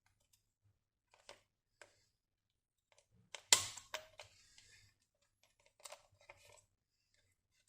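Scattered light clicks and taps of objects being handled, with one sharp knock about three and a half seconds in followed by a short rustle.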